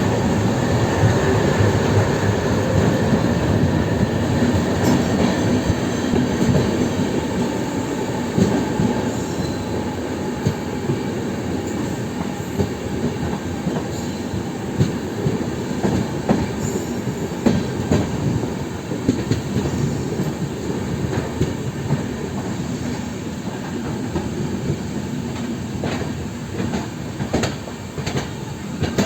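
Indian Railways LHB passenger coaches running over the track: a steady rumble of wheels on rail, broken by scattered sharp clacks as the wheels cross rail joints and points.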